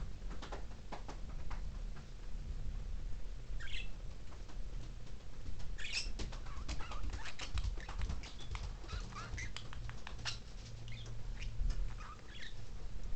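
Pet budgerigars chirping and chattering in short scattered calls, busier from about halfway through, with many small clicks and rustles.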